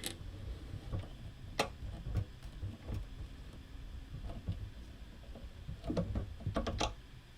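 Desk handling noise: a few sharp, light clicks, one about a second and a half in and a small cluster near the end, over a low, uneven rumble of things being moved about.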